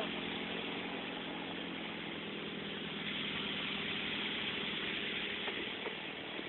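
A machine running steadily: a constant hum with a hiss over it.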